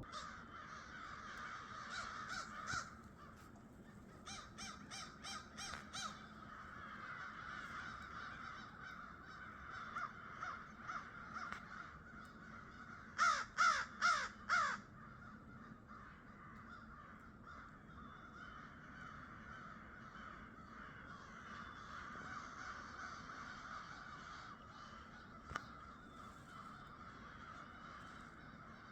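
Crows cawing in several runs of three to five quick caws, the loudest run about halfway through, over a steady background hum.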